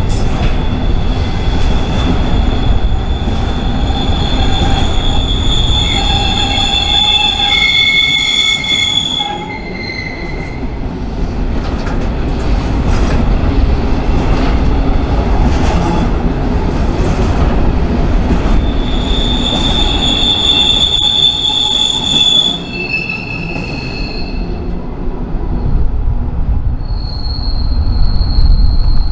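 Freight train rolling past with its steel wheels squealing against the rails over a steady low rumble. The high squeal tones come in long spells, fading out about a third of the way in, returning past the middle and again near the end.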